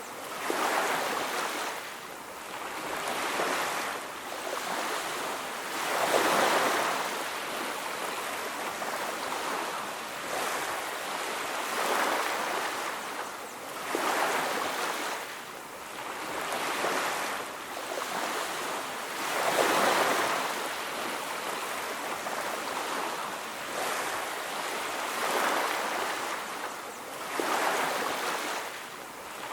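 Sea waves breaking on a beach, the surf's wash swelling and fading every few seconds in an unbroken, even rhythm.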